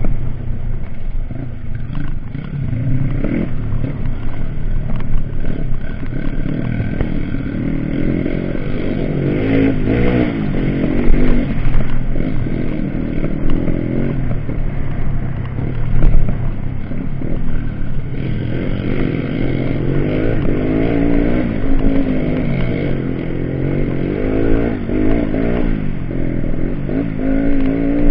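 Off-road dirt bike engines running and revving, the pitch repeatedly rising and falling, with scattered clattering knocks.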